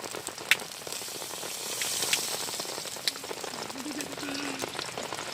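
Food sizzling in hot oil in a pan, the sizzle swelling about two seconds in, with a few sharp ticks and rain pattering behind.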